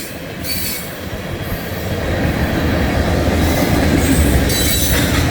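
Norfolk Southern mixed manifest freight train rolling past, a steady low rumble of wheels on rail that grows louder after about a second, with brief high wheel squeals near the start and again near the end.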